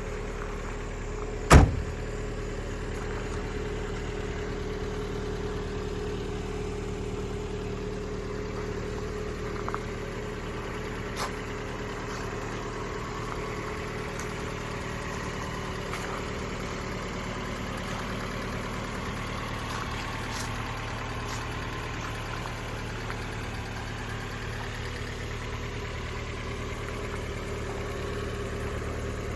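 Engine idling steadily after a cold start, with one sharp, loud knock about a second and a half in and a couple of faint clicks later.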